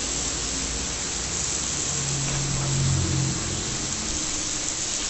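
Noodles and meat sizzling on a hot electric grill pan, a steady frying hiss, as they are stirred with chopsticks.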